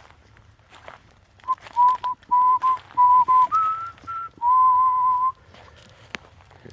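A person whistling to call dogs: a run of short whistled notes on about one pitch, two a little higher, then a longer held note.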